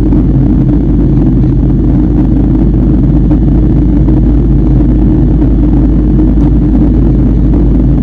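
Steady low drone inside a jet airliner's cabin: engine and airflow noise, with a few steady hums beneath it.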